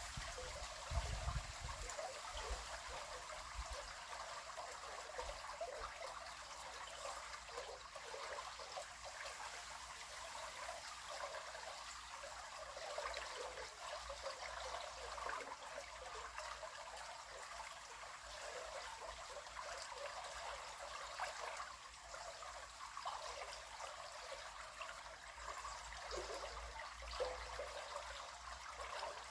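River water flowing and trickling: a steady, even rushing.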